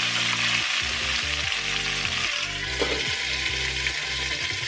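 Dried red chilies and curry leaves sizzling and frying in hot sesame oil in a stainless-steel kadai as they are stirred with a wooden spatula. About halfway through, a glass lid goes on and the sizzle becomes a little duller, under background music.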